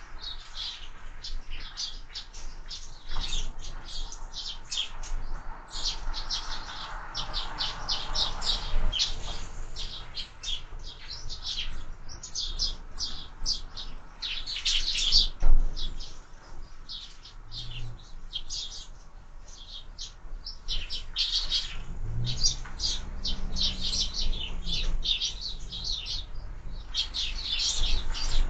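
Sparrows chirping, many short chirps overlapping with no pause. A single sharp knock sounds about halfway through.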